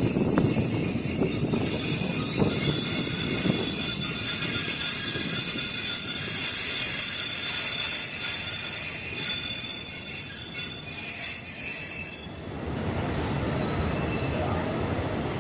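Passenger train's steel wheels squealing on the rail: a steady high-pitched squeal over the rumble of the moving carriage. The squeal fades out about twelve seconds in, and the rumble grows quieter.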